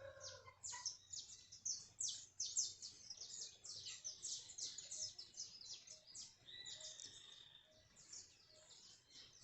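Many small birds chirping and twittering in quick, high notes, with one held whistled note about seven seconds in. A rooster's crow trails off right at the start.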